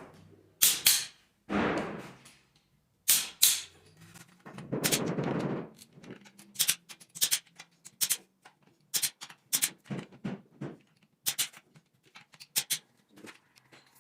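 Sharp metal clicks and knocks of hand tools and parts being handled during engine assembly: a few loud knocks in the first half, then a quick irregular run of lighter clicks.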